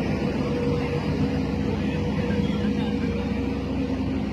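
A mobile crane's heavy diesel engine running steadily under load, with a constant engine hum and a higher whine held at a steady pitch.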